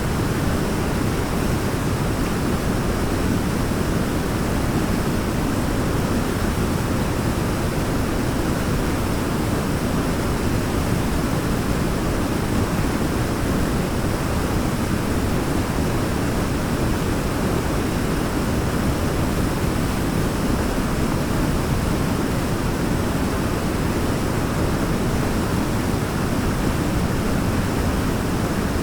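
Waterfall's steady, deep rushing roar of falling water, even and unbroken, with most of its weight in the low end.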